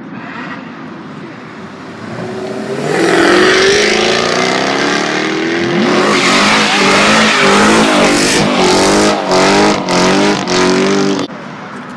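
Car engine revved hard: a rising run-up, then a string of quick blips rising and falling in pitch, cutting off suddenly near the end.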